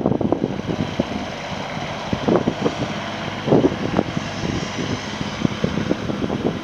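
Kubota RX-306 mini excavator's diesel engine running, with irregular knocks and clatter over it.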